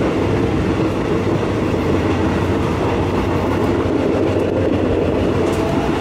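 Passenger train running along the track, heard from inside the carriage: a steady, dense rumble of wheels on rails with some clickety-clack.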